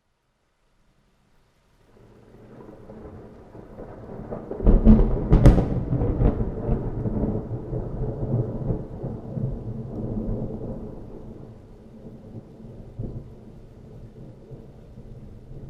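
A thunderclap: a low rumble builds, breaks into several sharp cracks about five seconds in, then rolls on and slowly fades.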